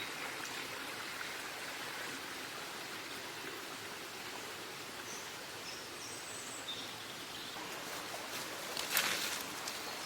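Outdoor ambience: a steady hiss of noise with a few faint, short, high bird chirps, and a brief rustle about nine seconds in.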